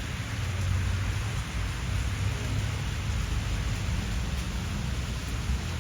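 Wind rumbling and buffeting on the microphone over a steady hiss.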